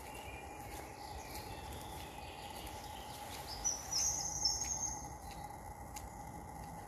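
Forest birdsong: faint chirps early on, then one bright, high chirping phrase a little past the middle, over a steady low background noise with a few faint clicks.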